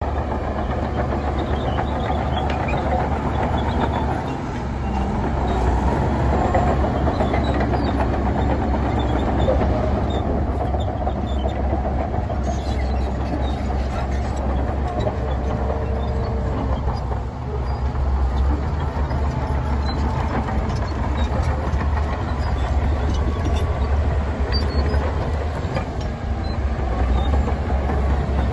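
Heavy diesel earthmoving machinery running steadily at a fill site, a deep engine drone with mechanical rattle over it.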